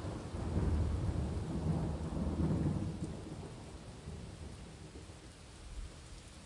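Rain falling steadily under a long, low roll of thunder that fades away over the last few seconds.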